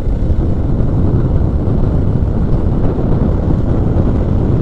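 Steady low rumble of wind buffeting the microphone on a moving motorcycle, with the bike's running noise mixed in.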